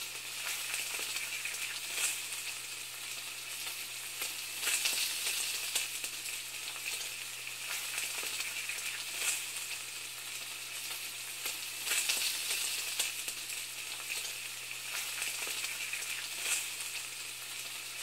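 Steady sizzling and crackling of food frying, with louder pops every second or two over a faint low hum.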